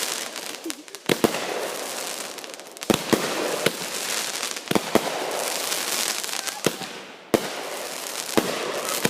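Consumer fireworks going off in a grand-finale barrage: about ten sharp bangs at uneven intervals, over a continuous crackling hiss.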